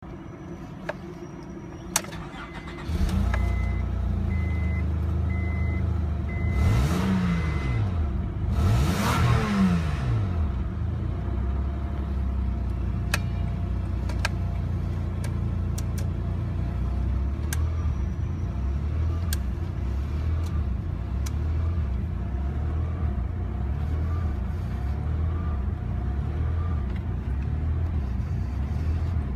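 Acura MDX V6 engine starting about three seconds in, revved twice briefly, then idling steadily. A series of short high beeps sounds through the start.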